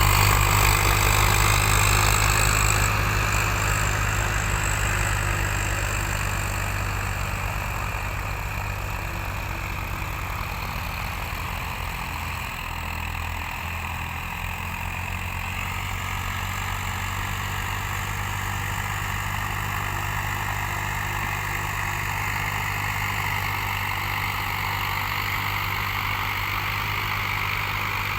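Tractor diesel engine running steadily, louder for the first several seconds and then settling to an even level.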